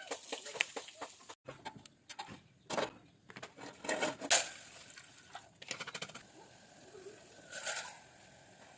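Crinkling and rustling of plastic packaging being handled and opened, with many quick crackles and a few louder rustles about 3 and 4 seconds in and again near the end.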